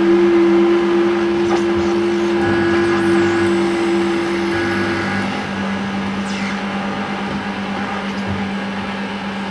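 Live electronic noise music: a steady low drone with a second, higher held tone over it that cuts off about halfway through, under a dense wash of hiss with a few faint sweeping squeals.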